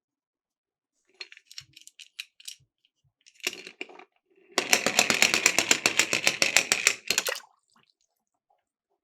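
Small die-cast toy cars rattling and clicking as they roll down a slope. A few light clicks come first, then a short clatter, then a loud, rapid, even clatter of about nine clicks a second lasting nearly three seconds, which stops suddenly.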